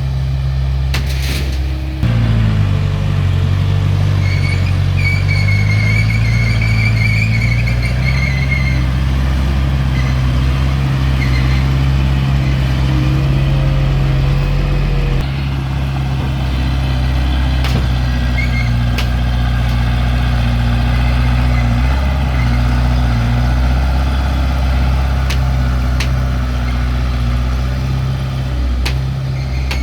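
Diesel engine of heavy earthmoving machinery running under load, its note stepping up about two seconds in, with a high squeal for several seconds soon after and a few sharp clicks later.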